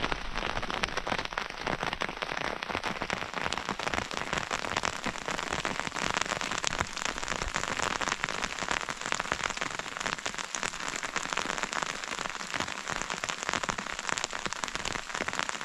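Heavy rain falling steadily, a dense hiss of countless drop impacts pattering on a hard surface.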